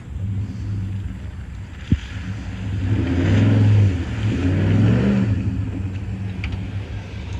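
Straight-piped Jeep Grand Cherokee exhaust running, with the engine pulling harder twice in the middle and easing off again near the end. A single sharp click about two seconds in.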